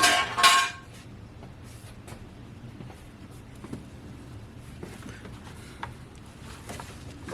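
A metal part clatters down and rings briefly in the first second, then faint scattered clicks follow, the sound of hands and tools working in the engine bay.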